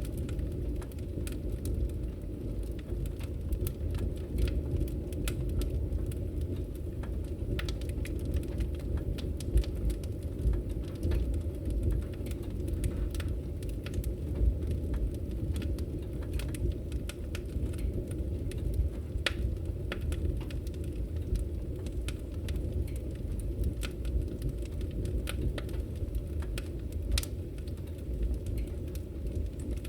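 Firewood burning in a fireplace: logs crackling with many scattered sharp pops over a steady low rumble of the flames.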